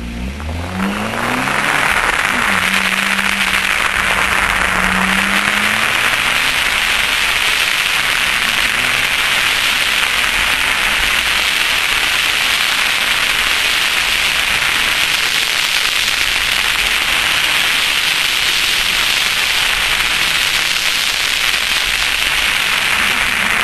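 2001 Chevrolet Cavalier Z24's 2.4-litre four-cylinder engine launching from a standstill, revving up over the first two seconds and then holding a steady pitch for a few seconds. After that it is largely buried under a loud, steady rush of wind noise on the microphone.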